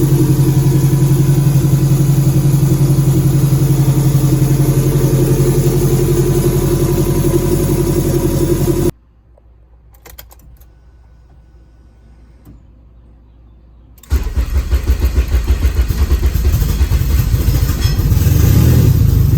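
Freshly swapped turbocharged Honda K24A four-cylinder running at its first start-up, steady and loud, then cutting out suddenly about nine seconds in. After about five seconds of quiet it fires again with a pulsing, uneven beat and runs on, a little louder near the end.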